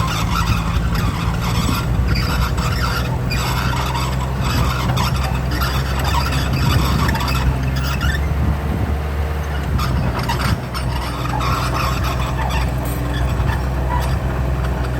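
Heavy earthmoving machine's diesel engine running steadily, with high-pitched squealing and metallic clatter over the engine hum.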